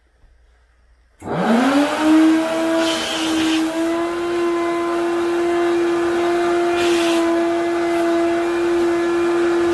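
Wet vacuum cleaner switched on about a second in: its motor spins up with a rising whine, then runs steadily with a rushing hiss, broken by two brief bursts of sharper hiss.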